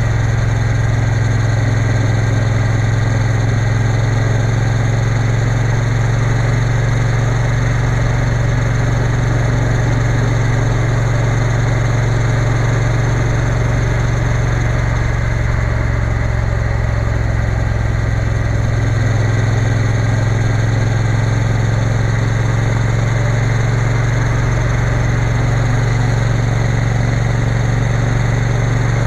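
Triumph Bonneville T120 parallel-twin engine running at a steady, even note, with steady rushing noise above it.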